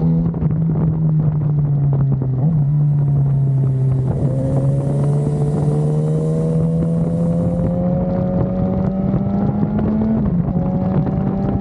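BMW S1000RR's inline-four engine under way, its pitch sagging a little and then climbing steadily for about six seconds as it accelerates, with a short dip near the end. Wind rushes over the microphone throughout.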